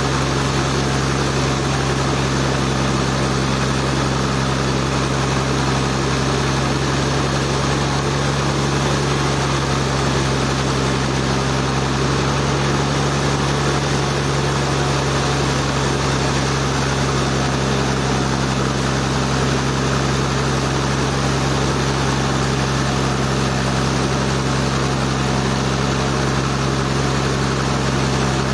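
Sawmill engine running at a constant speed, a steady low hum with an even mechanical noise over it.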